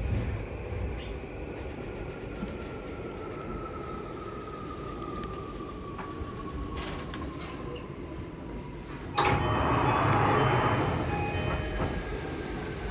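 Tokyu 3020 series electric train running: a steady rumble of wheels on track with a thin motor whine falling slowly in pitch as the train slows. About nine seconds in, a loud rushing noise cuts in suddenly for a couple of seconds.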